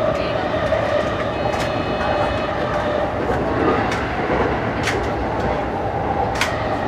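E233 series electric commuter train running, heard from the cab: a steady rumble with a sharp click from the wheels every second or two, and a brief high whine about two seconds in.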